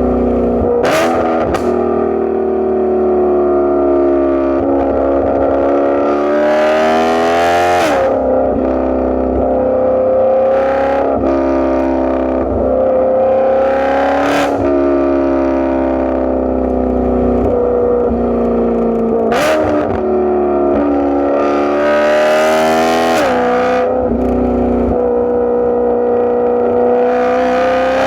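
Straight-piped, catless BMW E92 M3 V8 exhaust accelerating through the gears. The pitch climbs over several seconds, then drops sharply at each shift, about six times, with a short crack at several of the shifts.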